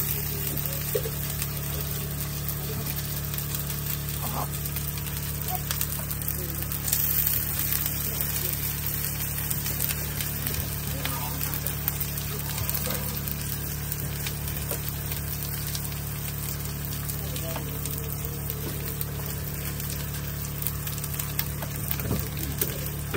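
Chopped vegetables and tomato slices sizzling in hot oil in an iron kadai over a wood fire: a steady frying hiss with a few light clicks.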